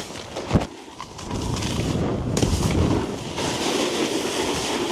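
A sharp thump about half a second in, then the steady scrape of a snowboard sliding over packed snow, with wind on the microphone.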